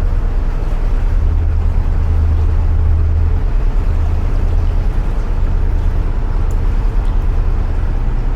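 Narrowboat's diesel engine running steadily at cruising speed inside a canal tunnel, a constant low hum.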